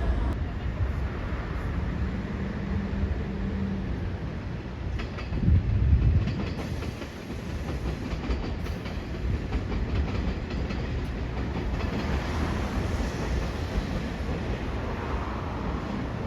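Train running on the rails, a steady rumble with the clickety-clack of wheels over rail joints, and a louder low thump about five and a half seconds in.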